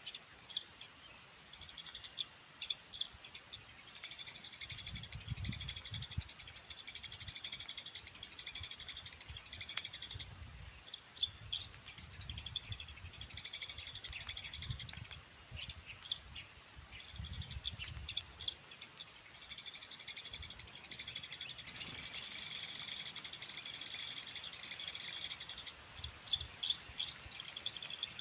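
Eurasian tree sparrows chirping in short, repeated chirps over a steady, high, pulsing trill. A low rumble comes and goes in the first half.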